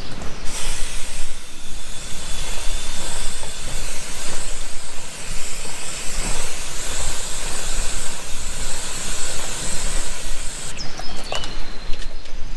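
Pressure washer spraying a jet of water onto a motorcycle's chain and rear wheel: a loud, steady hiss that cuts off suddenly near the end, followed by a few light clicks.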